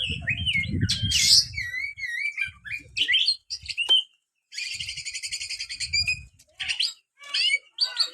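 An oriental magpie-robin (kacer) sings a varied, loud song of whistled notes that slide up and down. About halfway through there is a rapid buzzy trill lasting a couple of seconds. A low rumble sits under the song at the start and again during the trill.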